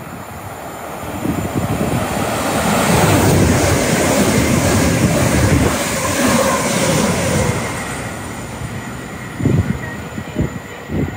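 Great Western Railway passenger train passing through at speed: the rush of wheels on rail and air builds over the first few seconds, is loudest in the middle, then fades away, with a few sharp thumps near the end.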